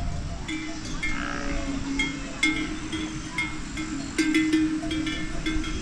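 Livestock bells clinking irregularly, many short metallic strikes that ring briefly, over a low steady tone.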